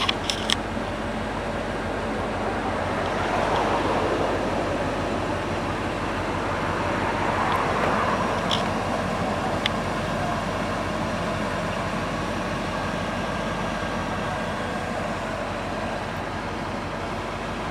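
1973 Chevrolet Corvette V8 running steadily, swelling louder twice, with a few short sharp clicks.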